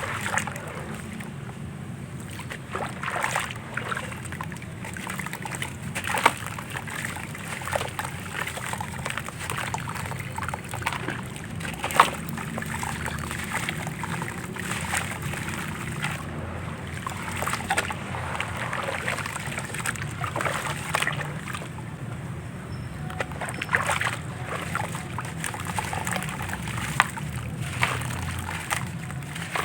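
Handmade gritty, crumbly pieces being dipped and worked in water: sloshing and splashing with irregular crackles, and a few sharper snaps.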